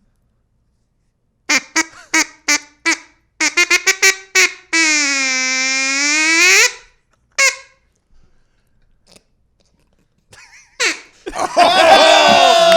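A hand-blown duck call quacking: a string of short quacks, then a faster run of them, then one long drawn-out call that dips in pitch and rises again, and one more short quack. Near the end, loud laughter breaks out.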